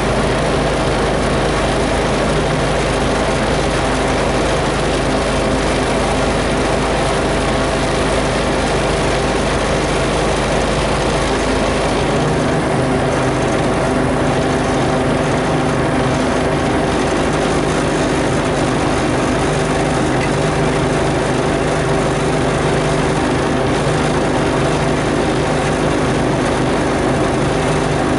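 Heavy vehicle engine running steadily during a winch recovery from mud, its note shifting slightly about twelve seconds in.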